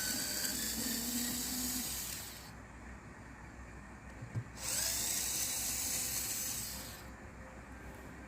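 Electric screwdriver whining in two runs of a couple of seconds each as it backs screws out of a washing machine's back cover. The first run stops a couple of seconds in, and a short knock comes just before the second.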